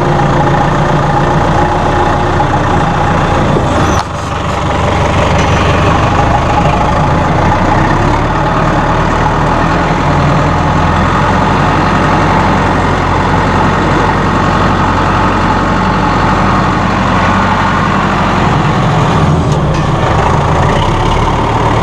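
A Massey Ferguson 573 tractor's Perkins 4.4-litre four-cylinder diesel runs steadily while the tractor is driven in gear, with a brief dip in level about four seconds in.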